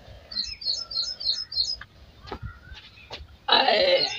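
A small bird chirping, a quick run of about five short high notes, followed by a few faint clicks and then a loud, brief rustling noise about three and a half seconds in.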